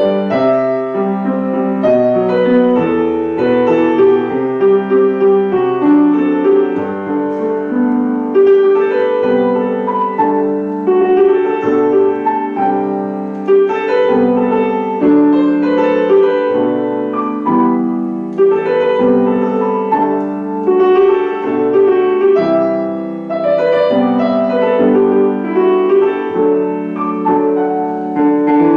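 Solo piano playing a pop-song arrangement, a melody over a continuous accompaniment.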